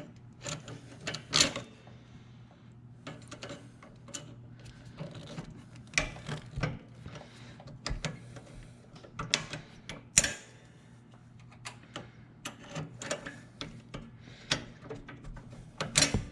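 Irregular metallic clicks and clinks of hand work on the zero-turn mower's steering control linkage, freeing a small retaining pin. A faint steady low hum runs underneath.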